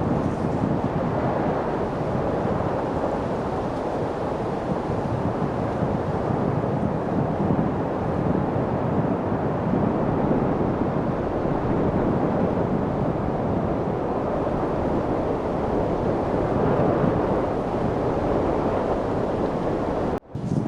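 Light wind blowing as a steady low rushing, which cuts out for a split second near the end.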